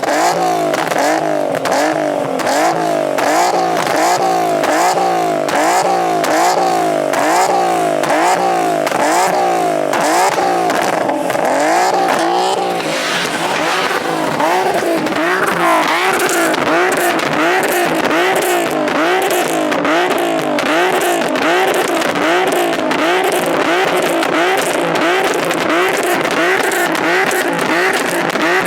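A car engine revving up and down over and over in a steady rhythm, roughly one and a half revs a second, with a shift in its tone about halfway through.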